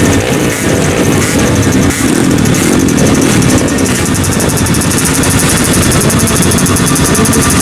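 Grasstrack racing motorcycle engine running loudly and revving, its pitch wavering up and down with the throttle.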